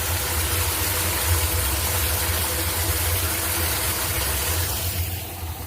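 Floodwater rushing down into a street storm drain: a loud, steady rush over a low rumble, easing off about five seconds in.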